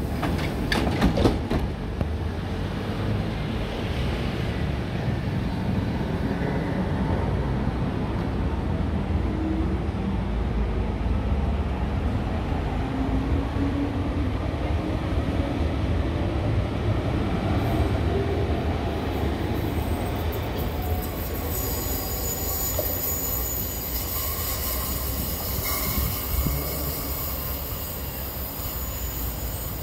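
Athens Line 1 electric train pulling out of the station: a steady low rumble with a few clicks and knocks at the start and a rising whine as it picks up speed. From about two-thirds in, high-pitched squealing tones join the rumble.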